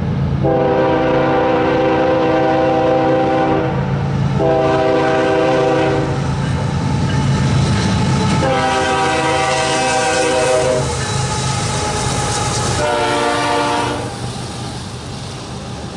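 Diesel freight locomotive's air horn sounding as the train passes: three long blasts and a shorter one near the end, each a chord of several steady notes, over the steady rumble of the train.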